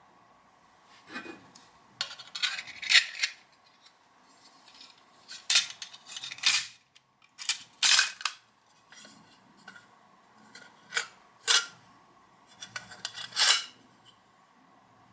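Irregular sharp metallic clicks and short clacks of small metal tools and thin metal parts being worked by hand, about a dozen separate strokes with the loudest ones near the middle.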